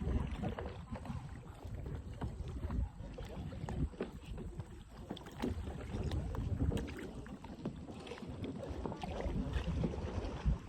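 Water splashing and lapping around kayaks, with many small irregular splashes and knocks, while wind rumbles unevenly on the microphone.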